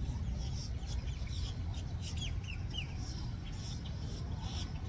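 Birds chirping in short repeated calls, with a quick run of four falling chirps about two seconds in, over a steady low rumble.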